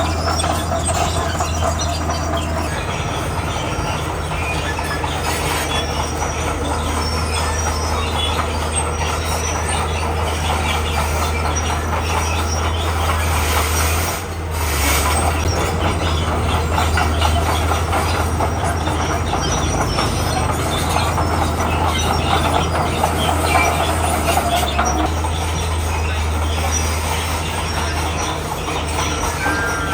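Komatsu bulldozer working: its diesel engine runs steadily under load while the steel tracks clank and squeal. The sound dips briefly about halfway through.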